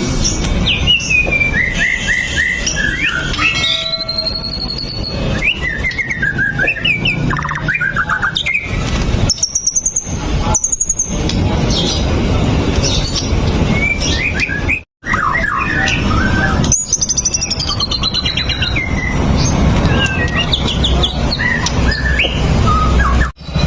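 White-rumped shama (murai batu) singing a varied song of loud whistles, rising and falling glides and quick trills, over a steady low rumble. The song breaks off briefly about two-thirds of the way in and again near the end.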